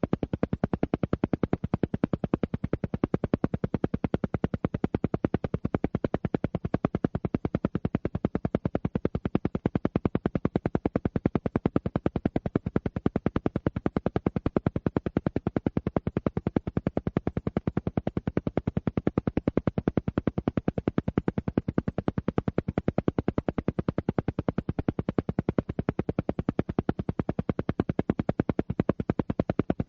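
Alpha-wave isochronic tone: a steady train of rapid, evenly spaced pulses that repeats without change, meant as brainwave entrainment for relaxation.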